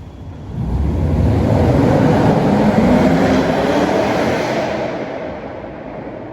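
Porsche Cayenne S V8 with a muffler bypass driving past, its exhaust note swelling loud, climbing in pitch, then fading away, echoing in a parking garage.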